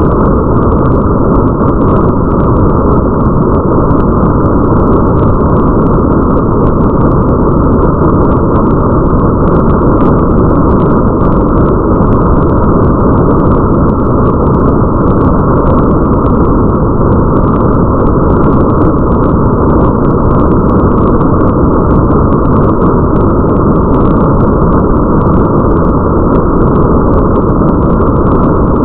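Steady, muffled rain ambience: a dense, dark rushing noise with a deep rumble and almost nothing high, and faint crackling drops on top. It holds unchanged throughout.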